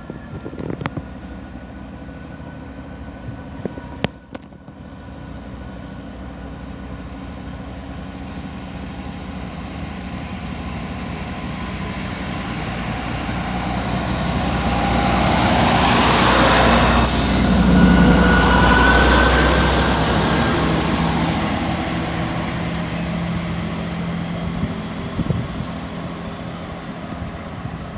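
Class 165 diesel multiple unit pulling away from a station. Its underfloor diesel engines grow steadily louder as it accelerates past, peak with a rush of rail noise, then fade as it draws away.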